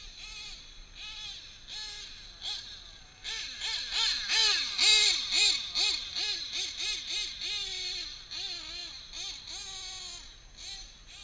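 Novarossi .28 nitro engine in a 1/7 scale RC truggy, revved in quick throttle blips: a buzzy whine that rises and falls two to three times a second, loudest about four to five seconds in.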